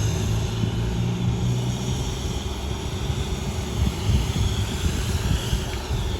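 Steady rushing vehicle or machine noise with a low hum that fades after about two seconds.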